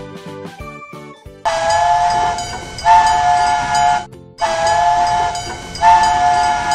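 Cartoon steam-train whistle sound effect: two long whistle blasts with a hiss of steam, separated by a short break.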